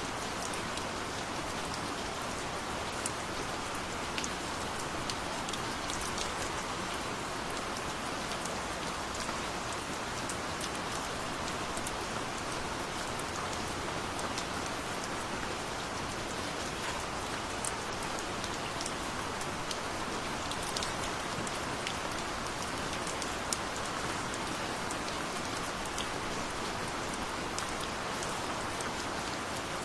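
Steady gentle rain falling, an even hiss with scattered light drip ticks.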